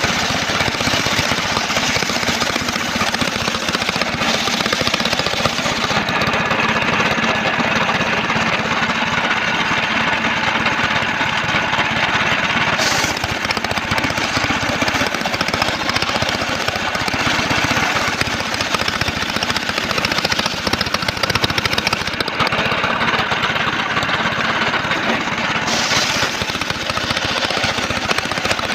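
Engine-driven homemade circular sawmill running loudly and steadily while sawing trembesi (rain tree) timber, with a fast pulsing engine note underneath; its higher noise fades and comes back a few times.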